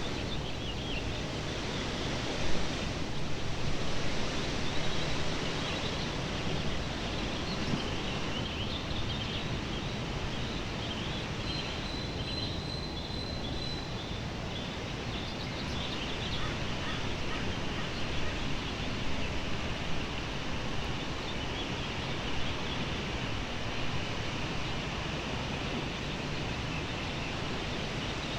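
Outdoor ambience: a steady rushing hiss with scattered bird chirps, and one held high whistled note near the middle.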